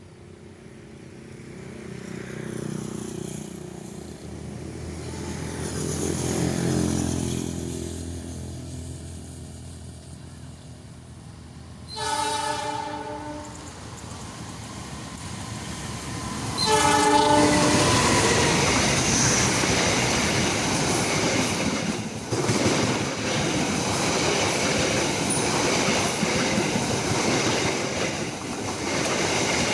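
A diesel-hauled passenger express approaches, its engine sound swelling. The locomotive sounds its horn twice, once about twelve seconds in and again some five seconds later. The train then passes close by, its wheels rumbling and clattering along the rails.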